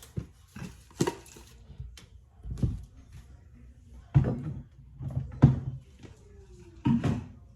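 Scattered knocks and thumps of things being handled in a kitchen, about six separate bumps spread unevenly.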